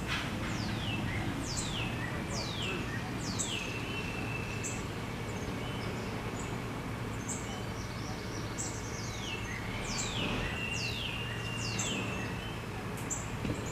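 Bird calls: a series of high whistles, each sweeping quickly downward and some trailing into a held steady note, with short high chirps between. A steady low hum runs beneath them.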